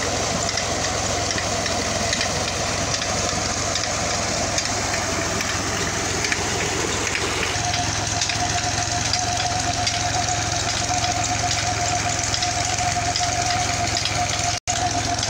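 New Holland tractor's diesel engine running steadily under PTO load. A steady high whine joins in about halfway through.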